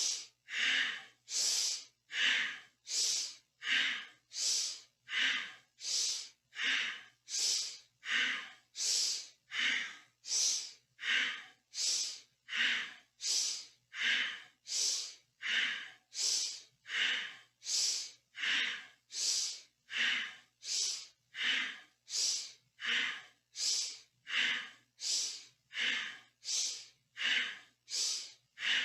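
A person's deep, powerful breathing, timed to a seated spinal flex: forceful inhales and exhales alternate in a steady rhythm, about one in-and-out every one and a half seconds.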